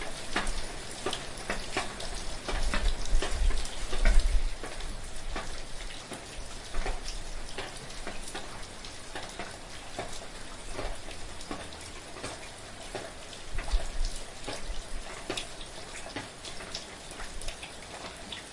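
Steady rain falling, with many separate drops heard as sharp clicks close by. Twice, about three seconds in and again about fourteen seconds in, a low rumble swells up beneath the rain.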